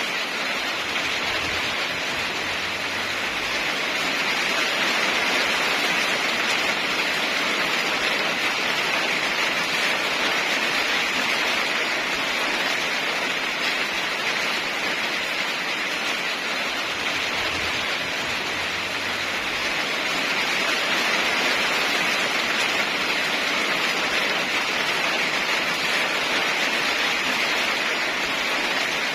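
Steady heavy rain, an even hiss that swells a little twice, with no thunder.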